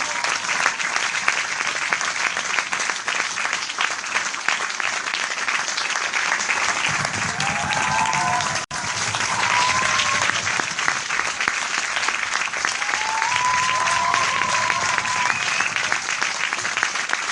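Crowd applause: many people clapping in a dense, steady patter. The sound drops out for a split second about halfway through.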